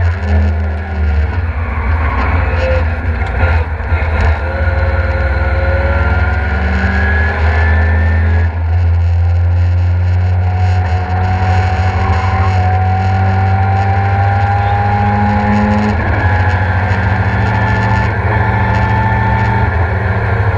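Ford Escort Mk2's RX-8 rotary-swapped engine under hard acceleration on track, heard from inside the cabin. Its pitch climbs steadily and drops back twice, about eight and sixteen seconds in.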